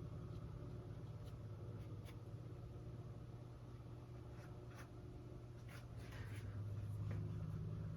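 Paintbrush dabbing and stroking acrylic paint onto a stretched canvas: a handful of faint, short scratchy strokes scattered through, over a low steady hum.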